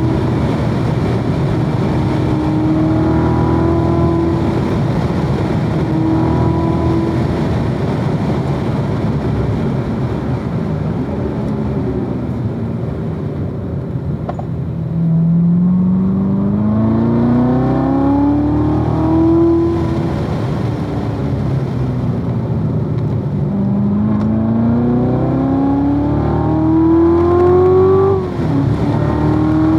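2016 Corvette Z06's supercharged 6.2-litre V8 under hard acceleration on track, its pitch climbing in long pulls and dropping sharply at each upshift, falling away between pulls when the throttle is lifted. The longest pulls come about halfway through and again near the end, the last one cut off by a sudden shift.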